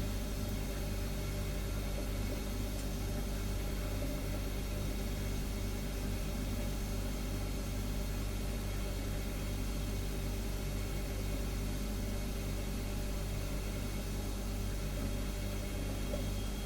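Refrigerator humming steadily: a low, even hum with a few steady higher tones and a faint hiss over it.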